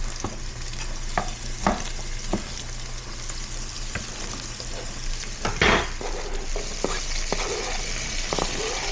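Food sizzling in a frying pan while a utensil stirs it, with scattered clicks of the utensil against the pan and one louder clatter a little past halfway.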